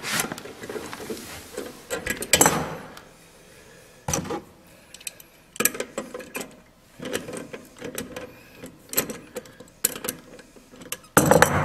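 Irregular clicks, knocks and short scrapes of toilet closet-bolt hardware being worked by hand while a squeezed-out bottom washer is refitted, with the loudest clatter near the end.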